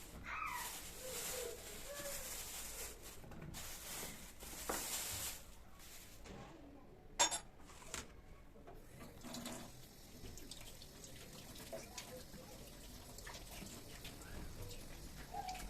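Kitchen work at a sink: water running or pouring for the first five seconds or so, then one sharp click about seven seconds in, followed by quieter handling noises.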